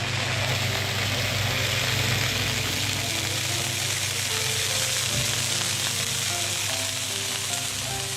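Hot-pot ingredients sizzling and frying in oil in a pan, a steady hiss that carries on without a break.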